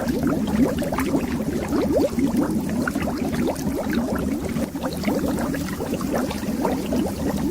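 Air bubbles rising under water: dense, steady bubbling made of many short, rising blips.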